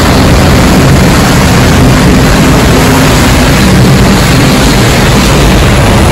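Heavy rainstorm downpour: a loud, steady rush of rain, with the low hum of vehicle engines ploughing through floodwater underneath.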